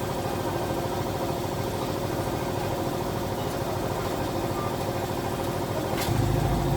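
SYM motorcycle engine idling steadily, with a click about six seconds in, after which it runs louder.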